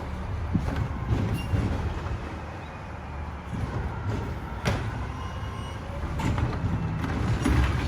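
Mack LR garbage truck with a Heil Durapack Rapid Rail side loader, its engine running with a steady low rumble, broken by several sharp metallic clanks.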